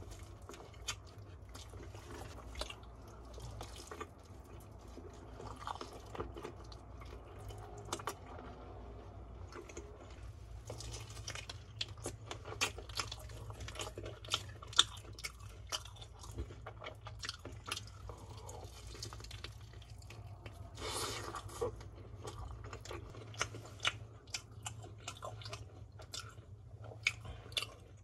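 Close-up chewing and crunching of BHC Bburinkle fried chicken with its crisp seasoned coating, many short sharp crackles throughout, with a denser run of crunching about 21 seconds in.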